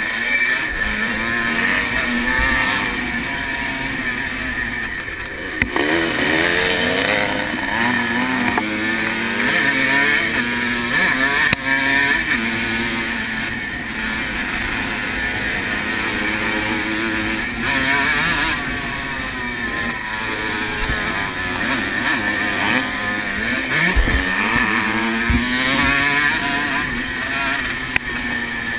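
1980 Honda CR125R's 125cc two-stroke single-cylinder engine revving up and dropping again and again as it accelerates, shifts and backs off along a motocross track, with wind rushing over the microphone. A few low thumps come near the end.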